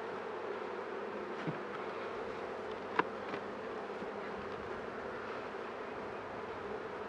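Honeybees buzzing steadily in large numbers around an open beehive, with a sharp knock about three seconds in and a softer one about halfway before it.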